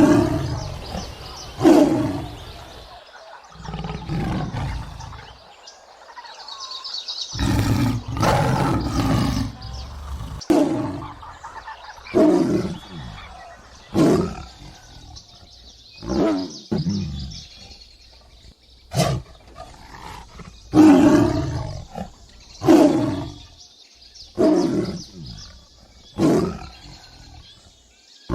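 Tiger roaring and growling over and over, a call about every two seconds, each one dropping in pitch, with one longer roar about a third of the way in.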